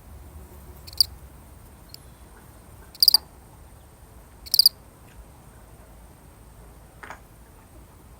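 A single field cricket chirping: three short, high chirps at irregular gaps of one to two seconds, followed near the end by a much fainter, lower click.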